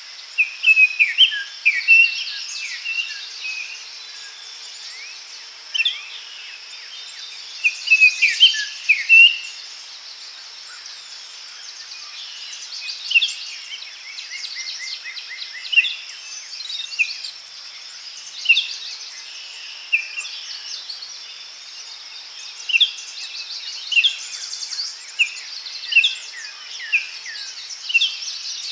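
Daytime forest ambience: several small birds singing and chirping in short bursts, over a steady high-pitched insect drone. The calls come in busy clusters early on and near the middle, then as single notes about once a second toward the end.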